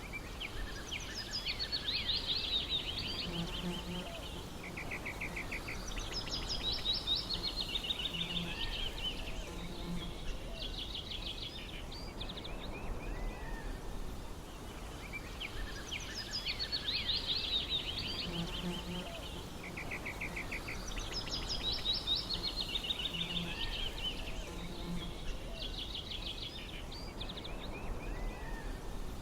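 Several small birds singing over a steady low outdoor rumble: fast trills and quick falling phrases. The same stretch of song comes round again about fifteen seconds later, as in a looped ambience track.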